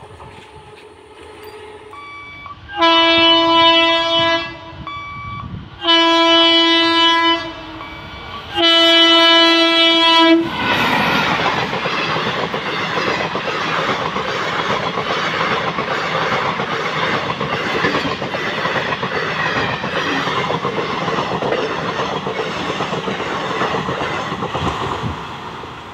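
WAP-4 electric locomotive's air horn sounding three long blasts. The express then rushes past at speed, its wheels clattering over the rails.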